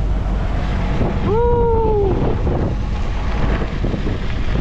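Wind buffeting the microphone with a steady low rumble outdoors. About a second in comes one brief held, slightly falling call, most likely a voice.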